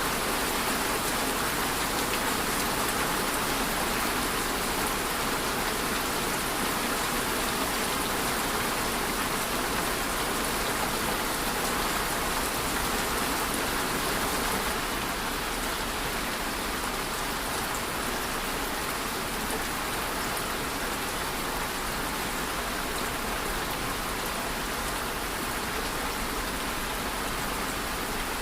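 Steady rain falling, a dense, even hiss of drops that becomes slightly softer about halfway through.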